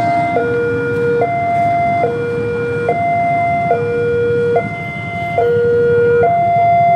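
Two-tone hi-lo siren, a higher and a lower note alternating about every 0.8 s, over a steady low rumble.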